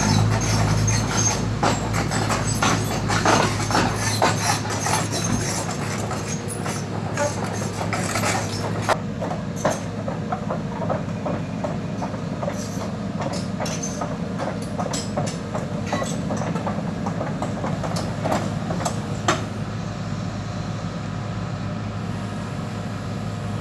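Kobelco SK140 crawler excavator running with a steady diesel engine hum, overlaid by repeated metallic clanks and clatter, typical of steel tracks working as the machine climbs onto a trailer. The clanking thins out and stops near the end, leaving the engine running.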